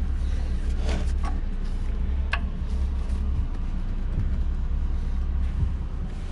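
Plastic wiring connectors being unplugged on a Ford 5.4 L V8 engine: a few sharp clicks in the first two and a half seconds, over a steady low rumble.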